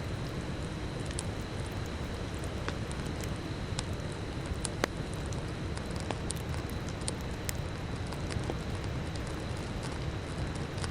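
Campfire burning: a steady low rush of flames with scattered crackles and snaps of burning wood, and one louder pop about five seconds in.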